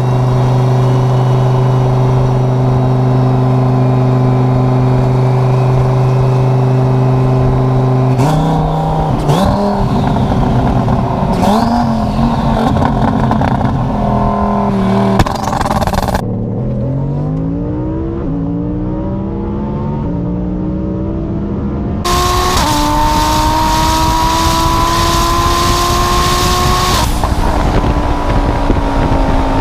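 Twin-turbo Audi R8 V10 engine on a drive. It holds steady revs at first, then the revs rise and fall. It climbs in pitch through several quick upshifts, then pulls hard with a rising note and a loud rushing noise for about five seconds before backing off near the end.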